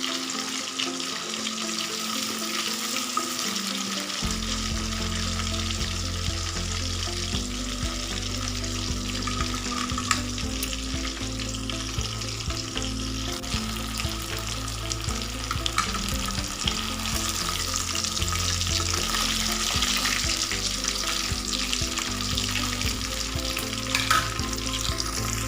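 Battered chicken pakoda pieces deep-frying in hot sunflower oil: a steady, even sizzle, with a few sharp clicks of a utensil as the pieces are stirred.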